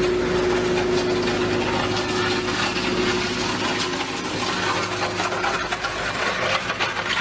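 A machine running steadily: an even rushing noise with a constant hum under it.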